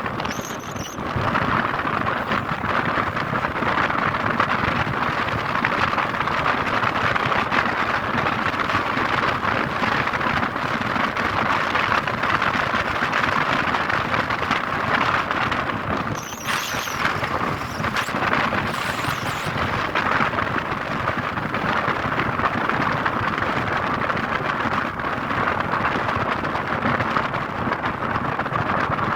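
Steady rushing noise of wind and road traffic while moving along a highway, with brief high squeals about half a second in and again around sixteen to seventeen seconds in.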